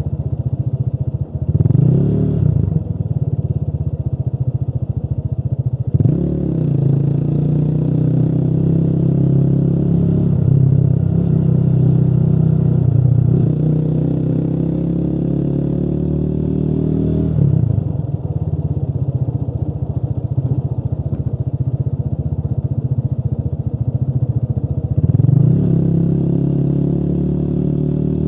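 Motorcycle engine running under way, its pitch climbing slowly as the bike accelerates and dropping back sharply several times at gear changes or when the throttle is rolled off.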